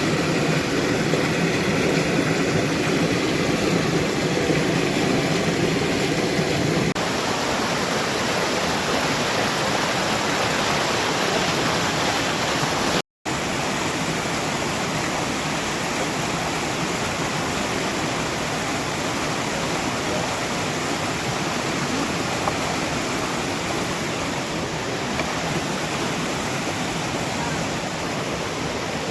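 Steady rush of flowing water, fuller and deeper for the first seven seconds, with a brief dropout about 13 seconds in.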